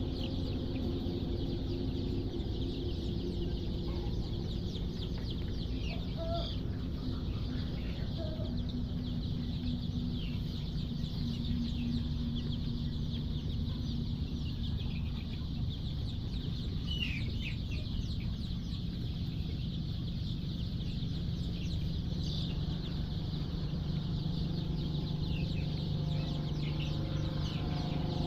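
A flock of desi chickens clucking and chirping continuously, many birds calling at once, over a steady low hum.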